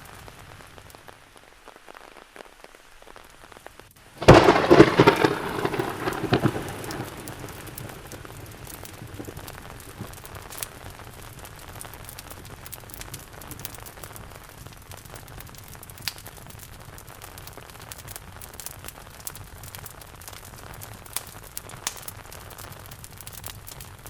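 A thunderclap breaks in suddenly about four seconds in and rumbles away over a few seconds, over steady rain. Scattered crackling clicks from a wood fire come through the rain.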